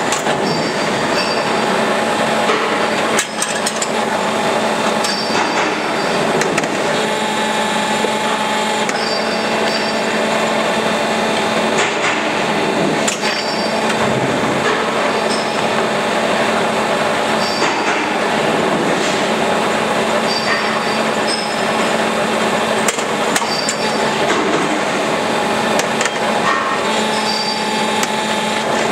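Construction-site din: scattered metal clanks and hammer-like knocks over a steady machinery hum.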